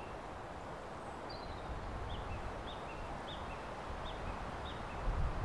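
A small bird calls again and again, short chirps about every half second, starting about a second in. Under the calls is a steady outdoor hiss with a low rumble.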